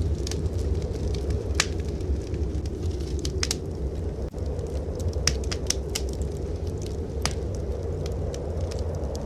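Wood fire crackling in a fireplace, with irregular sharp pops, over a steady low rumble of blizzard wind.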